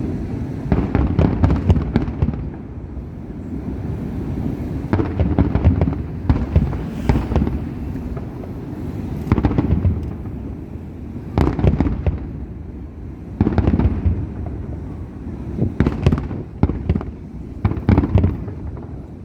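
Aerial fireworks display: clusters of sharp bangs and crackles recurring every two seconds or so, over a steady low rumble of distant bursts.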